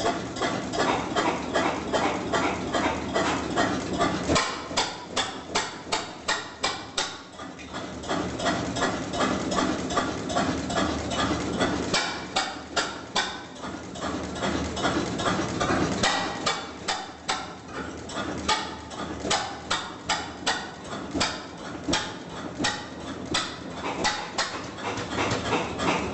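Vintage stationary engine running, a sharp knock on each firing stroke at roughly four a second, dipping in level for a moment twice.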